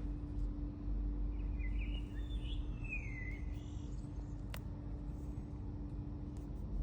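Steady low outdoor rumble with a constant hum underneath. A bird gives a short series of chirps between about one and a half and three and a half seconds in, and a single sharp click follows about a second later.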